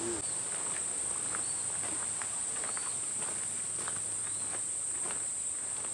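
Insects keep up a steady, high-pitched drone, while footsteps fall irregularly on the path.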